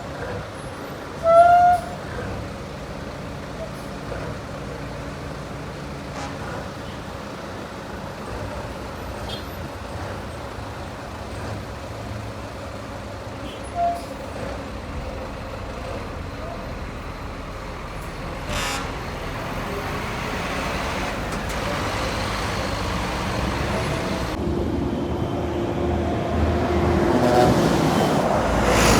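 Heavy highway traffic with trucks running past: a short horn toot about a second and a half in, another brief toot midway, and engine noise that grows steadily louder through the second half as a heavy vehicle comes closer.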